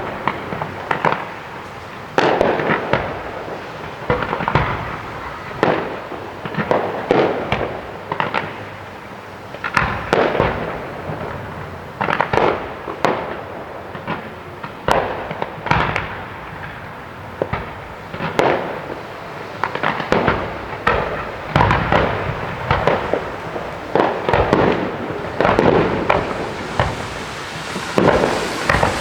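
Fireworks display: aerial shells bursting in quick succession, a bang every second or so, each followed by an echoing tail.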